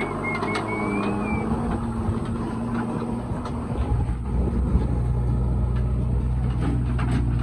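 Diesel engines of a backhoe loader and tractors running, with scattered knocks. A wavering high whistle-like tone sounds in the first second and a half. About four seconds in, the engine sound gets deeper and heavier.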